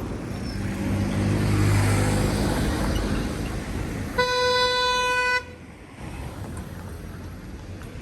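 A motor vehicle passing close with its engine running, then a single horn blast of about a second, one steady tone, about four seconds in, that cuts off sharply.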